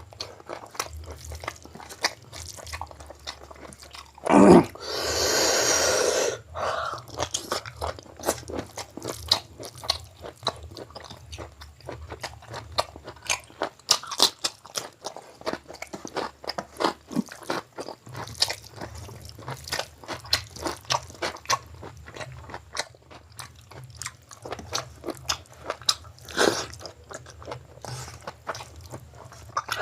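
Close-miked mouth sounds of someone eating spicy chicken gizzard curry with mutton biryani: steady chewing with many small crunches and wet clicks. About four seconds in comes a loud noisy burst lasting about two seconds.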